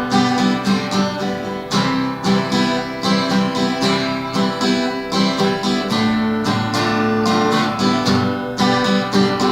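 Takamine EG-523SC acoustic-electric guitar strummed and picked in an instrumental break, a steady folk rhythm of chords with no singing.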